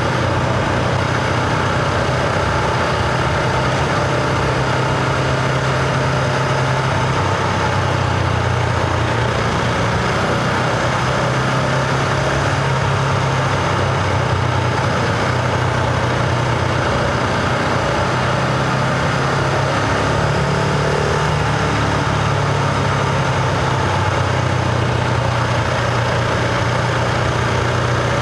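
Husqvarna Vitpilen 701's single-cylinder engine and exhaust running at a steady, even speed while riding, heard from onboard.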